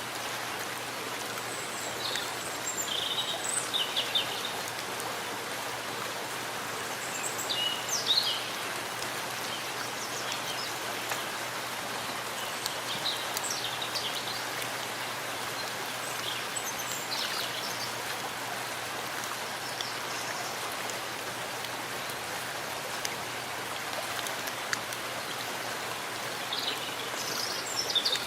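Steady rain falling in a forest, an even hiss of drops on leaves and ground. Brief high bird chirps come through it now and then, most clearly about 3, 8 and 28 seconds in.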